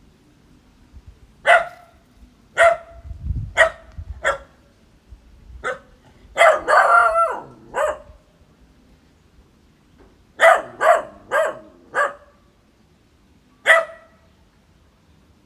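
A dog barking: about a dozen short, single barks at uneven intervals, with a quick run of barks run together near the middle.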